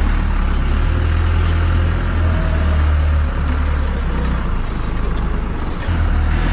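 Forklift engine running steadily with a deep hum. Its note eases off a little about three seconds in and picks up again near the end.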